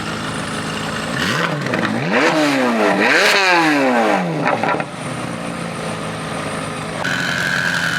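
A car engine idling, then revved hard twice in quick succession, its pitch climbing and falling back before it settles to a steadier run.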